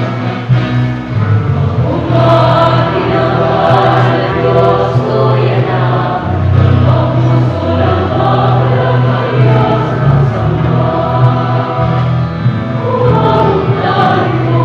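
A church choir singing a hymn with instrumental accompaniment and a steady bass line.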